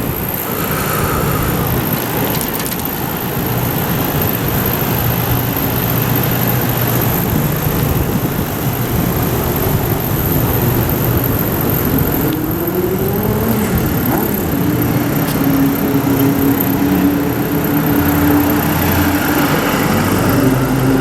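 Steady rushing noise, wind on the microphone of a camera riding on a moving bicycle, with a motor vehicle's engine running underneath; the engine's pitch rises about twelve seconds in, then holds steady.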